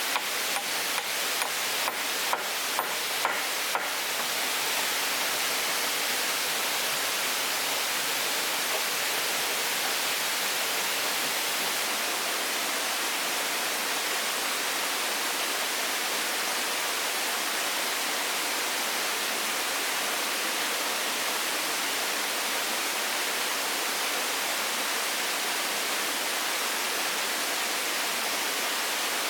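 A steady rushing hiss, like running water or rain, with a run of sharp, regular clicks at about three a second during the first four seconds.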